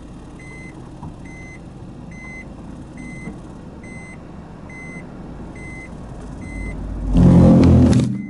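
Honda N-BOX+ reversing, its reverse warning beeping a little over once a second over a low vehicle rumble. About seven seconds in, a loud, rough low grinding rumble builds and lasts about a second. This is the abnormal noise and vibration the car makes when backing down a steep slope after a car wash.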